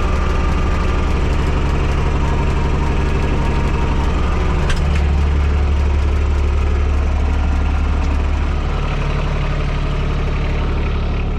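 TYM T224 subcompact tractor's three-cylinder diesel idling steadily. A single click about five seconds in, where the low rumble grows louder, and it drops back a few seconds later.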